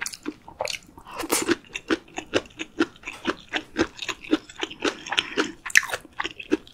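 Close-miked chewing of food with wet mouth sounds, about two chews a second.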